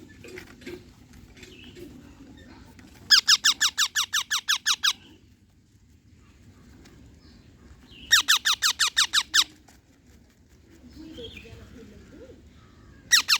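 Pet parrot screeching in rapid bursts of shrill, repeated calls, about six a second: one burst of about a dozen calls, a shorter burst a few seconds later, and another starting at the very end.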